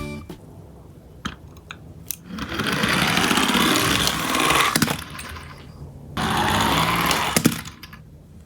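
Toy garbage-truck minicars rolling on a slope track: a rattling rumble of small wheels, twice, the first run about two and a half seconds long and the second shorter, with a few clicks between them.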